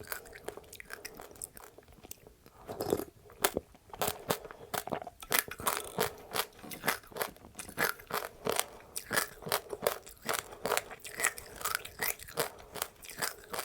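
Close-up chewing of crunchy seeds with passionfruit: quick, crisp crunches between the teeth, softer for the first few seconds and then coming several times a second.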